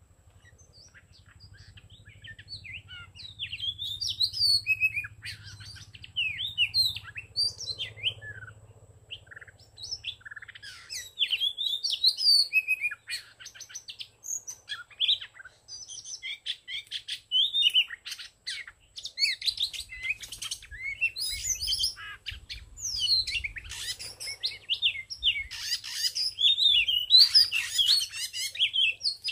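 Oriental magpie-robin singing and calling: a rapid, varied run of whistles and chirps that starts about a second in and grows busier toward the end.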